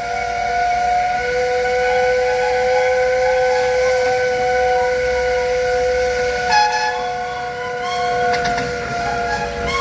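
Steam whistles blowing long, held notes: several pitches sounding together, a new one joining about a second in, over a hiss of steam.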